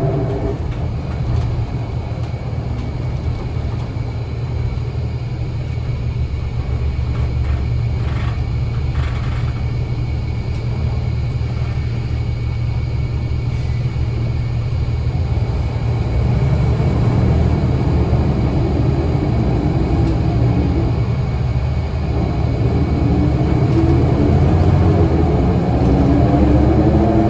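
Scania L94UA city bus's diesel engine and driveline running with a heavy, steady rumble. A whine falls away in pitch right at the start, then from about two-thirds through a whine climbs in pitch as the bus accelerates.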